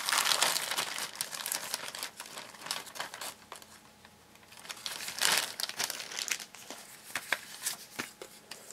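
Toy packaging crinkling and rustling as it is opened by hand, loudest at the start and again about five seconds in, with scattered small crackles near the end.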